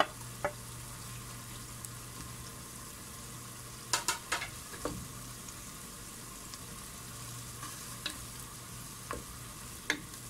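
Chopped onions and tomatoes sizzling steadily in coconut oil in a pan while being stirred with a wooden spatula. The spatula knocks against the pan now and then, with a quick cluster of knocks about four seconds in.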